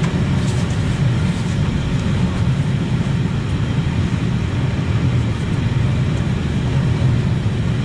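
Steady low rumble of a moving railway passenger coach, heard from inside the carriage.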